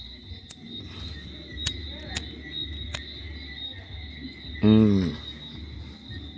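Steady high-pitched chorus of night insects, with a few sharp ticks. About five seconds in comes a brief loud call that falls in pitch, the loudest sound here.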